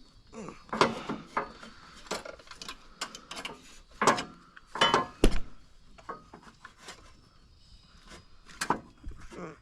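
Hand tools working on a stuck snowblower part: irregular metal clinks and knocks with some scraping between, the loudest strikes about a second in, around four to five seconds in, and near the end.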